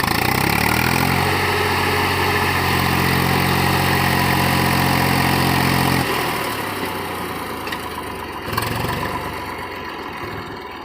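Swaraj 834 XM tractor's diesel engine revving up when it is set going and held at high revs under full load. It eases off about six seconds in and picks up briefly again near the end.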